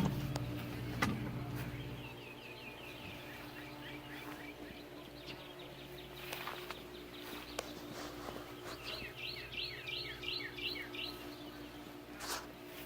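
A songbird outdoors singing two phrases of quick repeated chirps, about five a second, a few seconds apart, over a steady low hum. A sharp knock at the very start and a smaller one about a second in.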